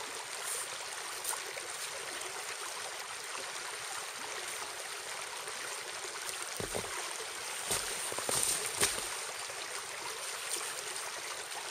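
Steady rush of a small stream, with a few short knocks from handling partway through.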